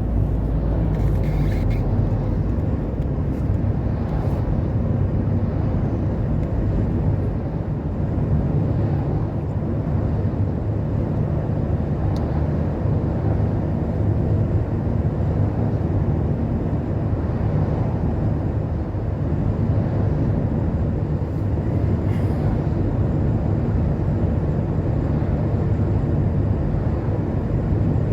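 Steady low rumble of vehicle and road noise from driving along a highway, with oncoming trucks and lorries passing.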